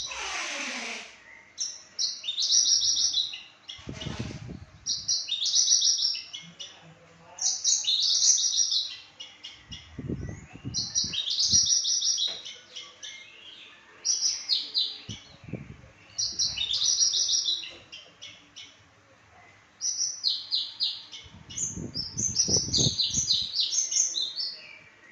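Papuan branjangan (Australasian bushlark) singing: repeated short bursts of fast, high chirping notes, each phrase about a second long, coming every one to two seconds. A few low rumbling thumps sound between the phrases.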